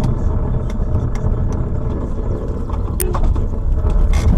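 Car driving, a steady low rumble of engine and road noise, with a few faint clicks and knocks.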